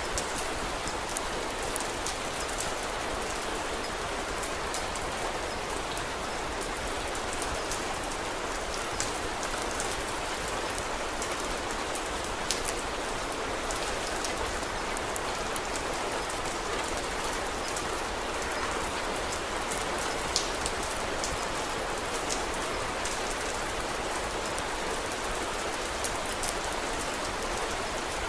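Steady rain falling, an even hiss with occasional sharp ticks scattered through it.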